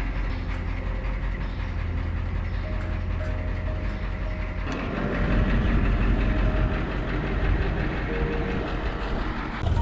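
Vintage farm tractor engines running with a steady rhythmic chug; the sound gets louder and busier about halfway through.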